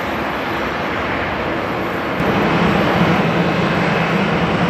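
Boeing 737-800's CFM56 jet engines running during pushback, a steady spread-out noise. About two seconds in it gets louder and a low steady hum sets in.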